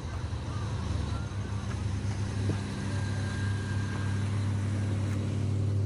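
A car engine running steadily at low revs, a deep even hum that grows a little louder toward the end.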